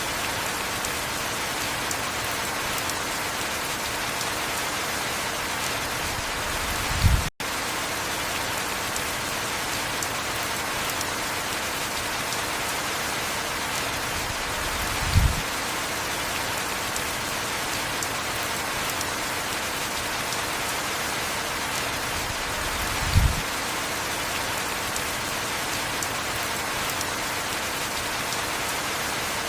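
Heavy rain falling steadily. A short low thump recurs about every eight seconds, three times, and the sound cuts out for an instant just after the first one.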